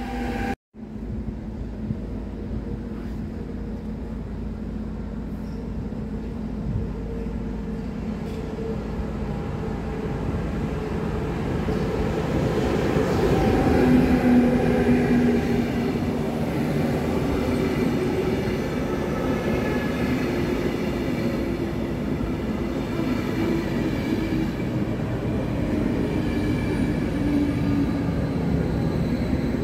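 Electric-locomotive-hauled passenger train rolling past close by: a steady rumble of wheels on rail with a few held tones, loudest as the locomotive goes by about 14 seconds in, then the coaches running past at an even level. The sound breaks off for a moment just under a second in.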